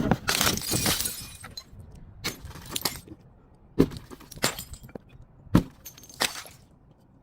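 Glass bottle being broken and crushed: a crunching shatter over the first second and a half, then six separate sharp cracks of glass.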